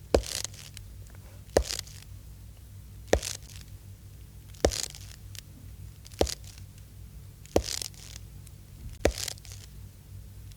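Slow footsteps on a crunchy surface, seven in all, about one every one and a half seconds. Each is a sharp strike followed by a short crunch.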